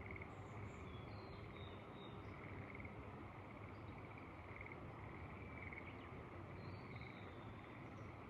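Faint rice-terrace field ambience: a soft pulsed call repeats roughly twice a second, a few short high bird chirps come and go, and a low steady hiss of wind lies underneath.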